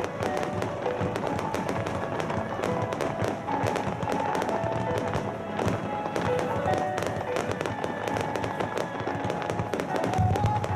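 Fireworks in a music starmine display, bursting and crackling in rapid, dense succession over recorded music from loudspeakers.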